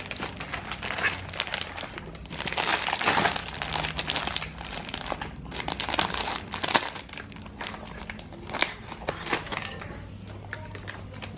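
Plastic snack wrappers crinkling and crackling as they are handled, thickest a couple of seconds in, with a few sharper crackles later.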